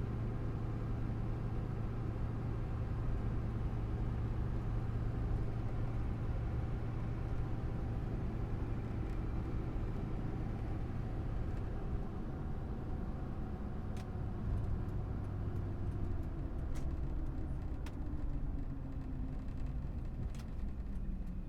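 Cabin drone of a 2004 GMC Sierra 2500 HD's Duramax diesel V8 and road noise while driving at a steady pace, the engine note drifting slowly up and back down. There are a few faint ticks in the second half.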